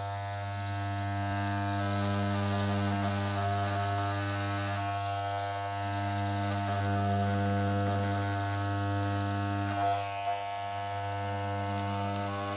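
Electric hair clippers buzzing steadily as they trim down the fuzzed pile of car door-trim carpet. The buzz wavers a little about halfway and again about ten seconds in.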